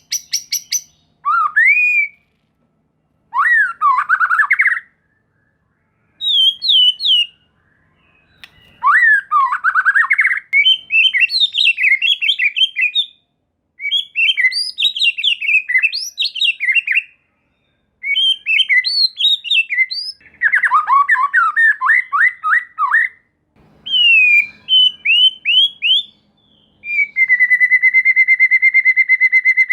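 White-rumped shama (murai batu) singing: short bursts of varied, sliding whistled and warbling phrases with brief pauses between them. Near the end the song turns into a long, fast rattle of rapidly repeated notes.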